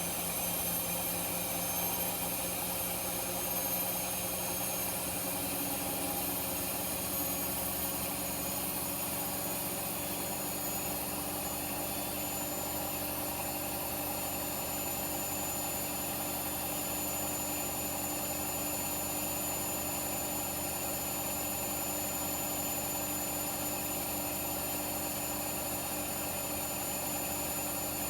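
Two front-loading washing machines, a Blomberg and a Hoover, spinning at high speed, with a steady motor whine and a few high tones creeping slowly upward.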